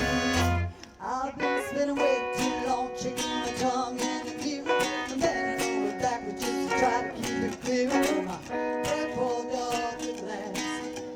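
Live band playing an instrumental passage led by strummed guitar; the bass and fuller band drop away under a second in, leaving lighter guitar-led playing.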